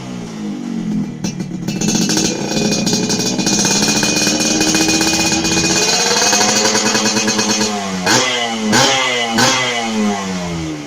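Yamaha RX-King's two-stroke single-cylinder engine revving through an aftermarket racing exhaust. The revs fall away, climb and are held high for about six seconds, then drop. Three quick throttle blips follow before the engine settles back down.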